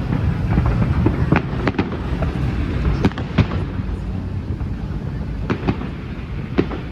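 Fireworks going off: about eight sharp bangs and cracks at uneven intervals, some in quick pairs, over a steady low rumble.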